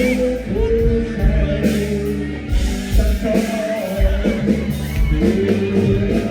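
Live band music: a singer over bass guitar and drums, loud and steady.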